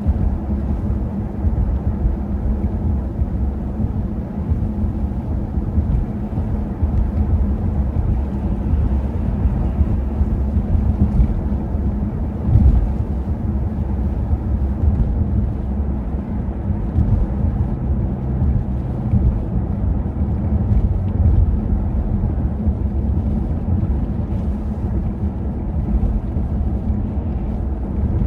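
Car driving along a highway, a steady low rumble of road and engine noise.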